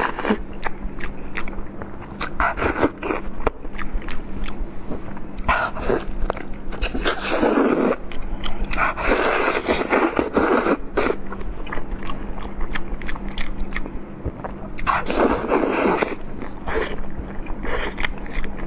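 Close-miked eating: biting and chewing meat from a lamb's leg, with many small wet mouth clicks and a few louder stretches of tearing and chewing.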